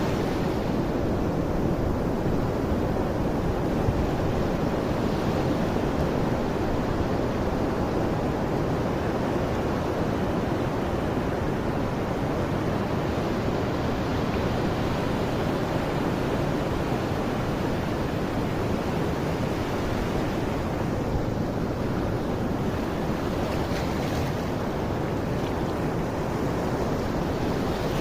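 Steady rushing noise, strongest in the low range, with no separate events or changes.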